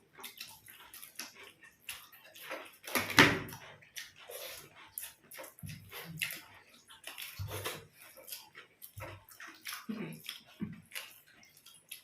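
Chewing and wet mouth sounds of people eating paratha and curry, with many short irregular clicks and smacks and one louder burst about three seconds in.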